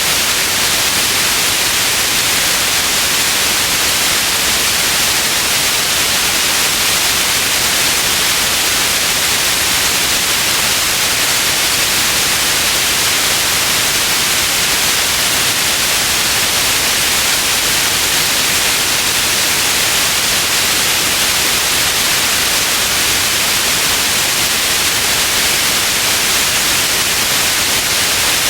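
Steady white noise used as a sleep sound: an even, bright hiss that never changes in level.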